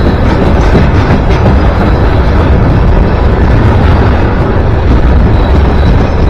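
A train passing close by with a loud, steady rumble and heavy low-end noise.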